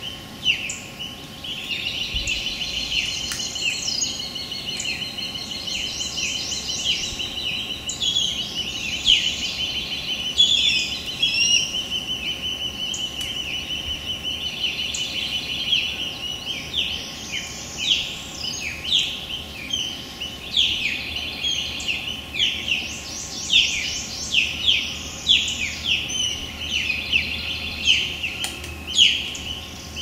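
Limpkin chicks peeping: a steady stream of high-pitched calls, many a second, with some louder notes standing out.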